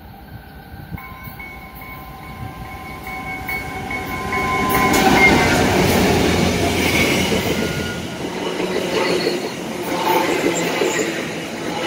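Commuter train, a locomotive hauling Bombardier bilevel coaches, approaching and passing close by. Faint steady high tones are heard as it nears. The sound builds to its loudest as the locomotive goes by about five seconds in. The coaches follow with a steady rumble and wheel clicks.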